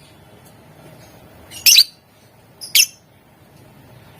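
Lovebird giving shrill, sharp calls: a quick cluster of notes about a second and a half in, then a single short call about a second later.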